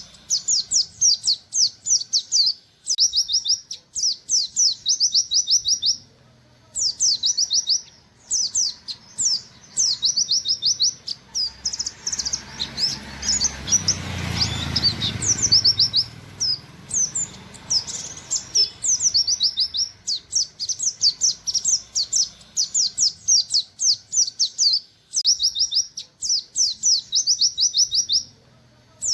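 Oriental white-eye (pleci, buxtoni type) singing in rapid runs of sharp, quickly falling 'wit wit' notes, several a second, phrase after phrase with short gaps. A low rumble swells and fades around the middle.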